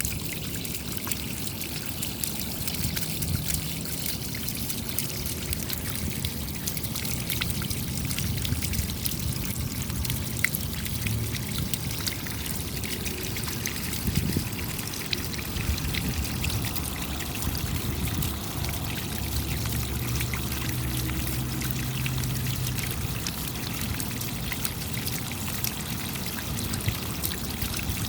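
Steady rain falling, with many small drop ticks over an even hiss of running water.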